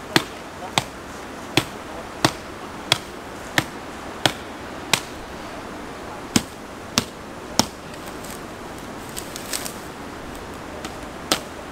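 A hand tool striking the ground again and again at a steady pace, about one and a half blows a second, while a pit is dug out. The strikes pause briefly twice, then a few softer knocks and scrapes follow.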